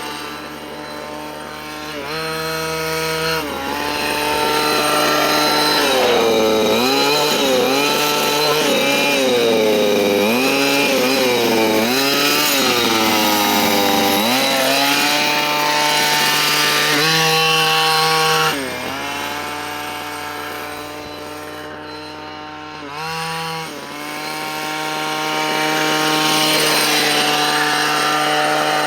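Dynamite CY23cc two-stroke gas engine of a 1/5-scale Losi Desert Buggy XL running during break-in, revved up and down over and over. It drops back to a low idle about 18 seconds in, blips once briefly, and revs up again near the end.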